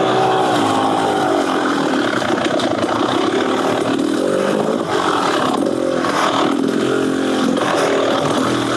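Beta Xtrainer 300 two-stroke single-cylinder dirt bike engine through an FMF Gnarly exhaust, revving up and down over and over as the throttle is worked on the trail.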